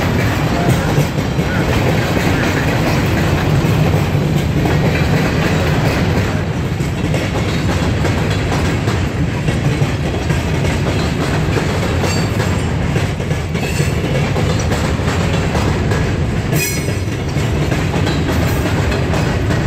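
Freight train of covered hopper cars rolling past close by: a steady loud rumble of wheels and cars on the rails. A brief high-pitched wheel squeal comes near the end.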